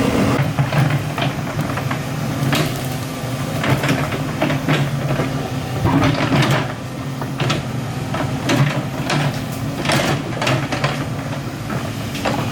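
Excavator's diesel engine running steadily, with repeated irregular knocks and clanks of metal and rock as it works.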